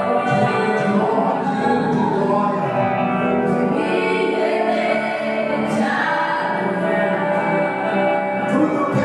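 Gospel hymn sung by a group of voices, as in a church choir or congregation, with music behind it.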